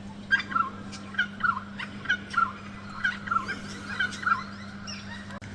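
A bird calling in a quick run of about a dozen repeated, bending notes lasting about four seconds, over a steady low hum.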